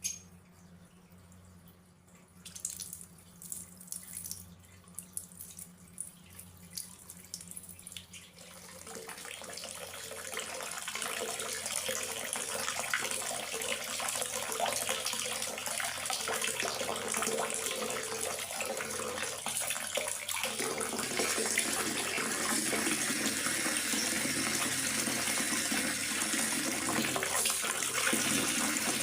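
Rain falling: scattered drops at first, then the rain builds to a steady, heavy hiss from about ten seconds in.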